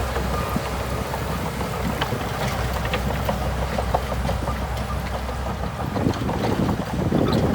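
Shantui DH17C2 bulldozer's diesel engine running steadily, with a few scattered clicks and some wind on the microphone.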